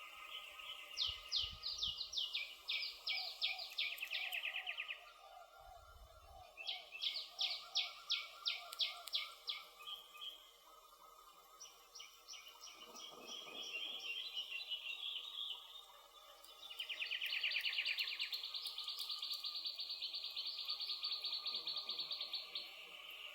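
Songbirds singing in bursts of fast, rapidly repeated notes, with a long unbroken trill starting about two-thirds of the way through and running on. Faint crackles of a wood campfire sound underneath.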